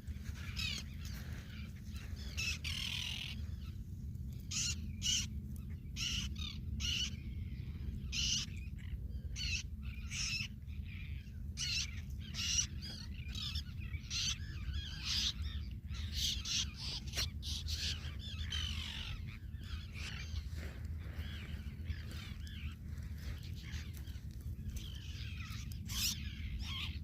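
Seabirds calling over and over: many short, harsh calls, some overlapping, coming about every second, over a steady low rumble.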